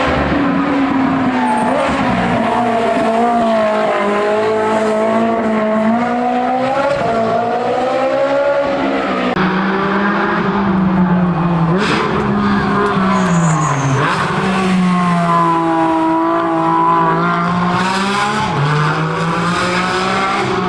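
Race car engine held at high revs, its pitch rising and falling as the throttle is worked, with tyres squealing.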